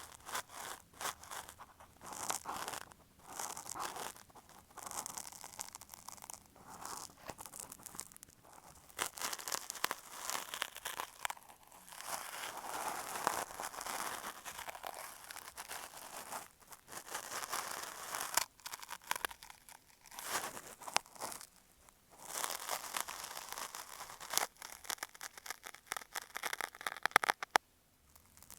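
Cotton swab rubbing and scratching against an earphone microphone, imitating ear cleaning: irregular scratchy, crinkly strokes broken by short pauses.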